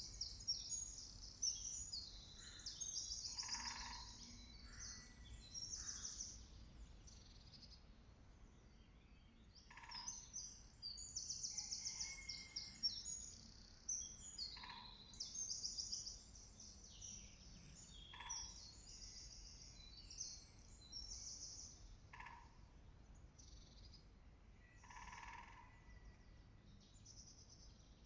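Songbirds singing high-pitched trilling phrases of fast repeated notes, one after another. A lower short call repeats every few seconds beneath them.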